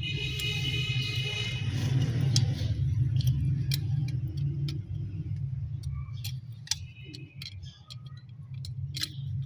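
A steady low mechanical hum runs throughout, with scattered light clicks and taps. A high whine sounds over it for the first two seconds.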